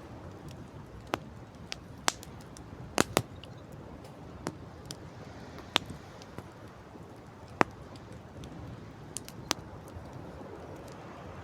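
Wood campfire crackling, with about ten sharp, irregular pops over a steady rush of wind and sea.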